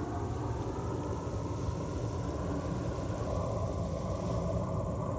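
Steady low rumble of surf with a faint engine drone that levels off after rising, and a continuous high-pitched insect trill.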